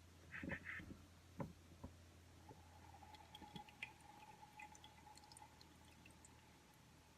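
Presto MyJo hand-pumped coffee maker on its last press. A few clicks and a short hiss come in the first two seconds, then faint dripping of the last coffee into the cup over a thin, steady tone.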